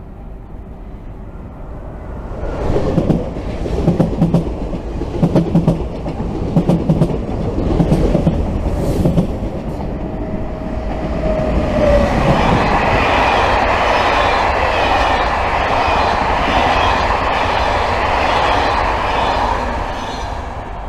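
A locomotive-hauled train, a BB 7200 electric locomotive with its coaches, passing through a station. Its wheels clack rhythmically over the rail joints, and from about halfway through a louder steady rolling rush takes over, easing off near the end.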